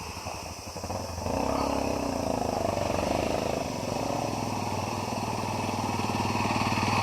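Off-road trail motorcycle engine ticking over with an even firing beat, then given throttle about a second in and running louder with rising and falling revs, picking up again near the end.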